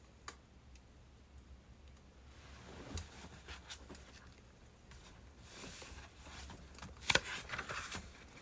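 Birch-wood fire crackling with scattered sharp pops and snaps, flaring into denser hissing crackle twice, with the loudest snap about seven seconds in.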